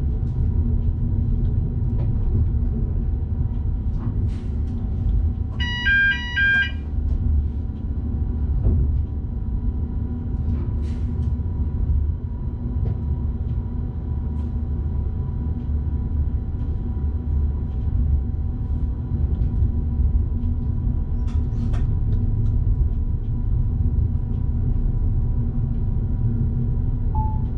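Low, steady rumble of an electric train running along the track, heard from inside the driver's cab, with scattered faint clicks. About six seconds in there is a short run of electronic beeps alternating in pitch.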